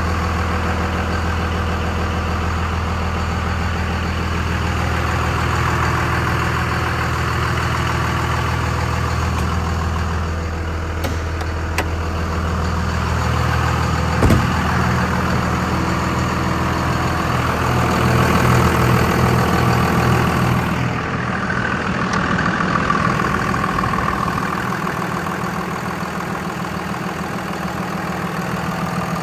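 2001 Dodge Ram 2500's 5.9L HO Cummins turbo diesel, fitted with an aftermarket exhaust, idling steadily. The tone shifts a little about ten seconds in, and there is a single sharp knock about halfway through.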